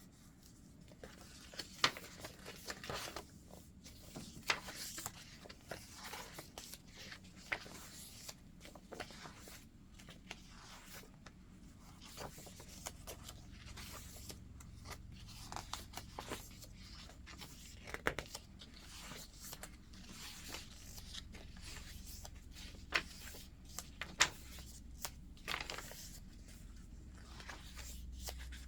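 Pages of a thick handmade paper junk journal being turned and handled: soft, irregular paper rustling and crinkling, with a few sharper snaps as pages flip over.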